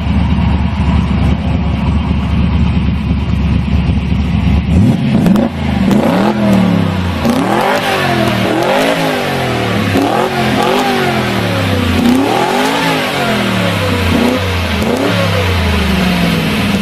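A muscle car's engine idling with a deep rumble, then revved again and again, the pitch climbing and dropping about once a second.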